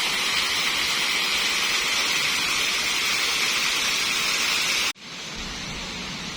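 Steady rushing of a waterfall, a hiss-like roar of falling water. About five seconds in it cuts off abruptly to a quieter, duller rush with more low rumble.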